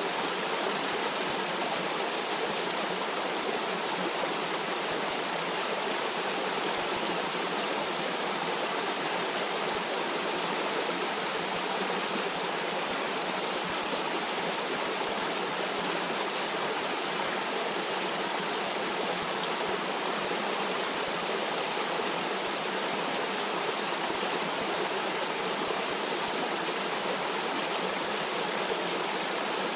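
Stream water running and rushing over rocks, a steady even wash with no breaks or changes.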